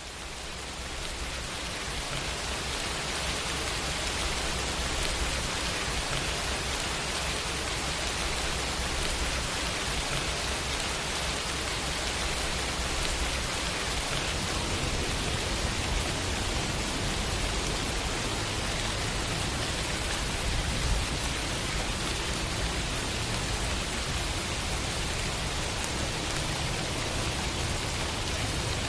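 Steady, dense rain, an even hiss with a low rumble beneath it, fading in from silence over the first second or two and then holding level.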